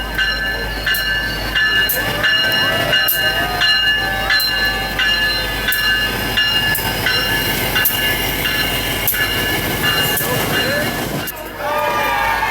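A train running on the rails: steady high-pitched squealing with regular clicks of the wheels over the rail joints, about every three-quarters of a second.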